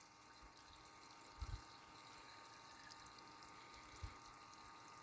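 Pumpmatic Super Gas Pump, a fuel transfer pump running on AA batteries, giving a faint steady whine as it pumps diesel from a jerry can. Two soft low thumps about a second and a half in and again near four seconds.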